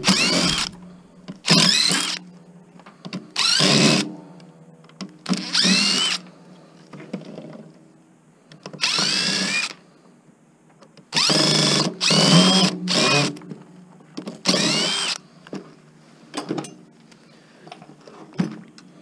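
Cordless drill run in repeated short bursts, each with a whine that rises in pitch as it spins up, working the transistors off a power supply's heat sinks. Small metal clicks follow near the end.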